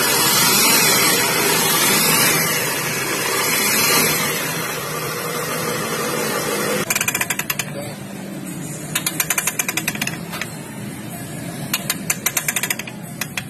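A machine running loudly for about seven seconds, then three short bursts of rapid rattling clicks.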